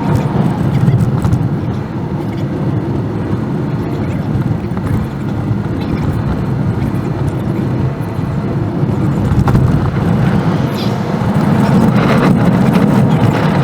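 Car driving: a steady rumble of engine and tyre noise, with scattered short clicks and knocks.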